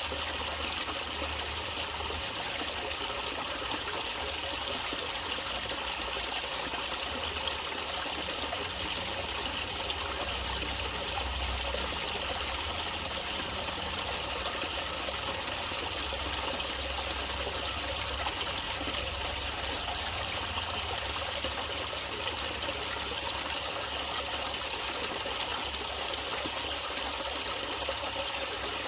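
Natural stream water trickling and flowing steadily and evenly, with a low rumble underneath.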